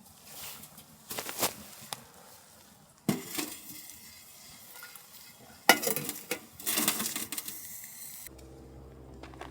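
Metal camp cookware and utensils clinking and scraping in several short bursts. Near the end a steady low hum begins.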